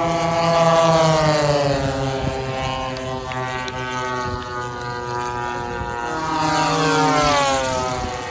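Large RC warbird model planes with propeller engines making two fast fly-bys, about a second in and again near the end. Each pass gets loud and then drops in pitch as it goes by.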